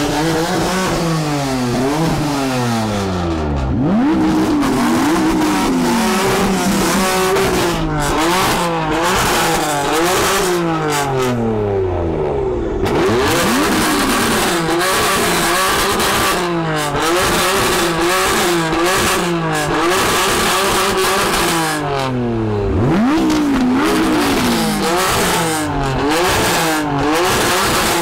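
A performance car engine revved over and over. Quick blips rise and fall in pitch near the start and the end, and in the middle the revs are held high and wavering for several seconds at a time, with crackles on top.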